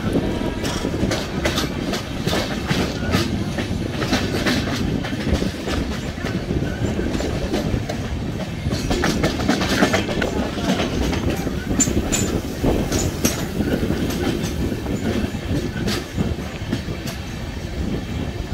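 Passenger train coach running along the track: a steady rumble of wheels on rail with many short, irregular clicks and clatters as the wheels pass over rail joints.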